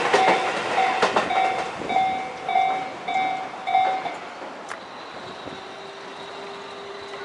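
A Tobu Skytree Line train passing over a level crossing, its wheels clacking. The crossing's warning bell rings over it in an even, repeating ding about every 0.6 seconds. The bell stops about four seconds in, and the train noise fades away.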